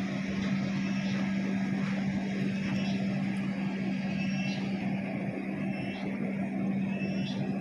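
Passenger train running, heard from inside the coach: a steady rumble with a constant low hum, and a few faint short high-pitched squeaks now and then.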